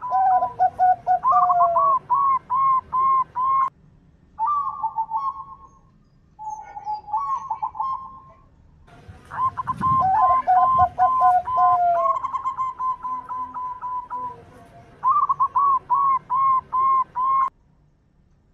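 Zebra doves (perkutut) cooing in fast series of short, hooked coo notes. At times two birds overlap at different pitches, and there are a few short breaks.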